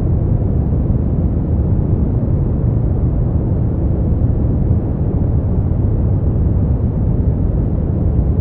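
Steady brown noise: an even, deep hiss weighted heavily toward the bass and fading away toward the treble, with no changes.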